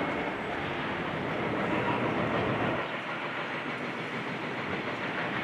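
Steady mechanical rumble and clatter of demolition machinery; the deep rumble drops away about three seconds in.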